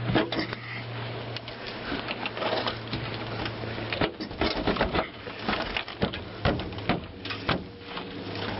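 Irregular knocks, clicks and rattles of the stuck hood on an old 1951 Chevrolet pickup being worked at and tugged; the hood won't open.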